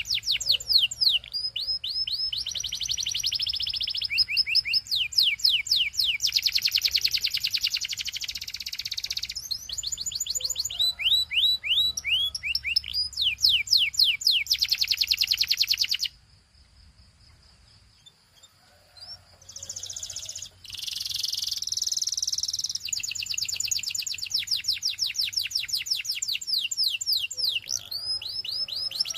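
Canary singing: long runs of rapid repeated chirps and fast trills. The song breaks off for about three seconds past the middle of the stretch, then starts again with more trills.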